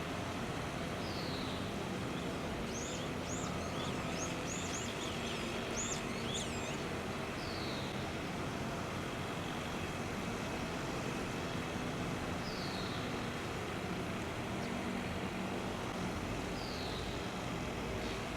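Wild birds calling: a single downslurred high note repeated about four times, several seconds apart, and a run of short, higher chirps a few seconds in, over a steady low rumble.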